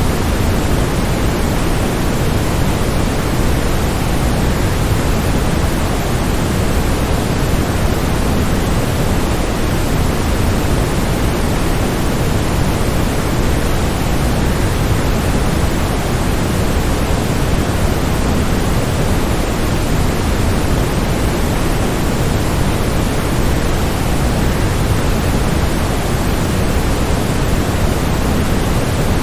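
Waterfall white noise: a steady, even rush of falling water, heaviest in the low end, with no changes or separate events.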